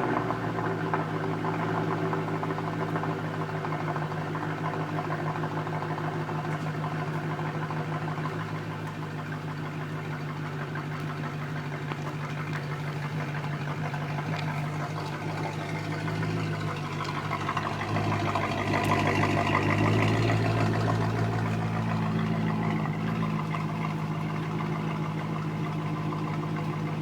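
Mercedes-Benz W211 E-Class AMG V8 idling after a cold start, through C63 AMG exhaust mufflers. The steady exhaust note swells for a few seconds about two-thirds of the way through, then settles back to idle.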